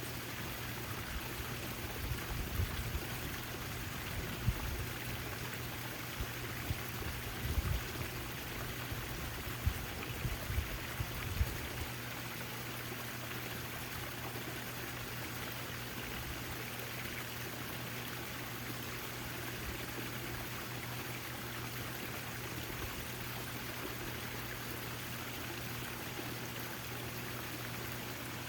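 Backyard fountain water falling and trickling steadily, with a low steady hum underneath. A scattering of low thumps comes through the first twelve seconds or so.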